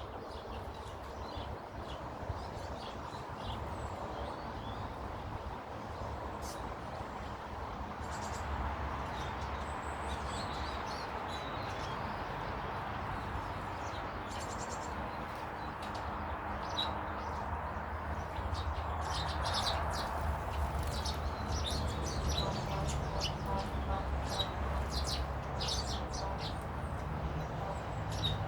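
Small garden birds chirping in short, quick calls, more and more often in the second half, over a steady background rush.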